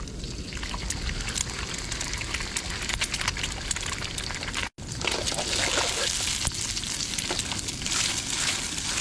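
Egg and pork frying in rendered pork fat in an iron wok: a steady sizzle with many small crackling spatters, briefly cut off about halfway through and then a little louder.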